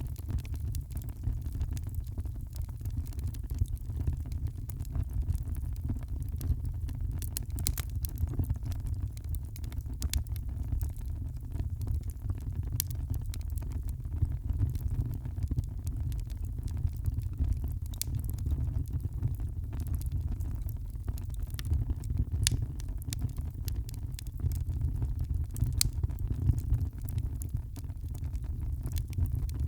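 Wood fire crackling in a fireplace, with sharp pops scattered irregularly over a steady low rumble.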